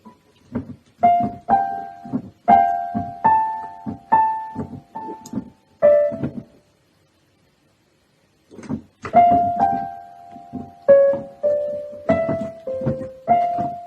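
A piano or electric keyboard playing single notes one at a time, one or two a second, each starting with a soft thud. About two seconds of silence in the middle breaks the notes into two runs.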